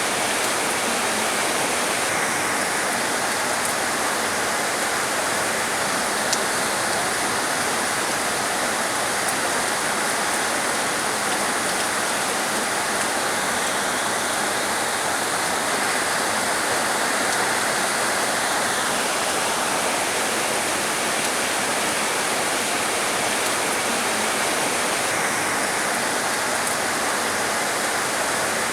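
Heavy rain falling as a steady, dense hiss. A brighter upper layer of the hiss sets in a couple of seconds in, drops away past the middle and comes back near the end.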